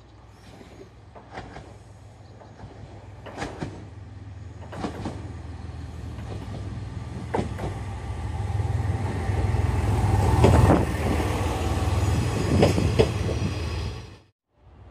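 A diesel train approaching on jointed track: a low engine and wheel rumble grows steadily louder over about ten seconds, with sharp clacks of wheels crossing rail joints, some in quick pairs. The sound cuts off suddenly near the end.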